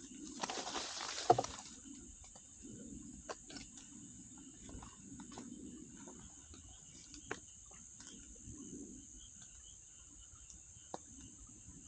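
A wood campfire crackling quietly with scattered sharp pops. In the first second and a half there is a rustle that ends in a loud snap.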